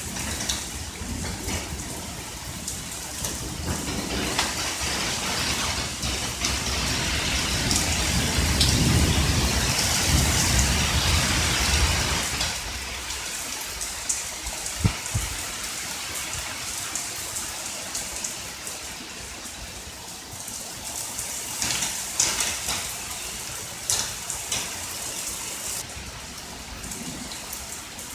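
Steady rain falling during a thunderstorm, with a long rolling rumble of thunder that builds and then dies away about halfway through. After it, the rain carries on more quietly, with a few sharp drip taps.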